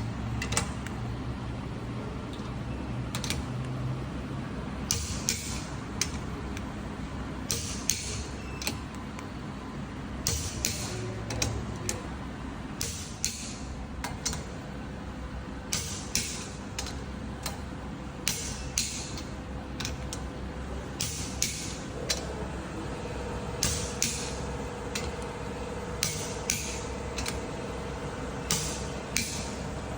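A steady low machine hum with irregular sharp clicks and taps, roughly one or two a second; a steady tone joins the hum in the last third.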